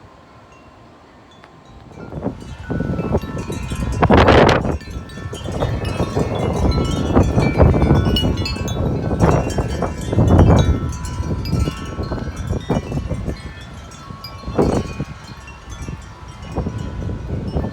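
Wind chimes ringing continuously in strong, gusty wind, with wind buffeting the microphone. The wind picks up sharply about two seconds in and then comes in heavy gusts.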